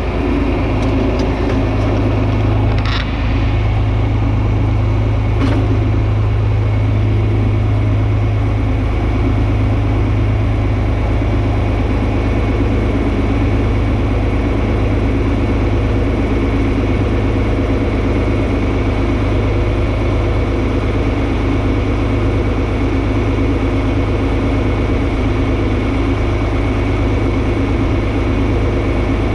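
John Deere 4320 tractor's six-cylinder diesel engine running steadily, with a short sharp sound about three seconds in.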